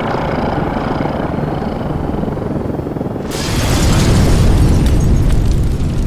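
Cartoon sound effects: a low rumble, then about three seconds in a sudden loud explosion-like boom with a long rumbling tail.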